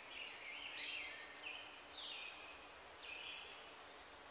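Wild birds singing: a run of short, falling whistled notes and chirps, repeated again and again over a faint steady background hiss.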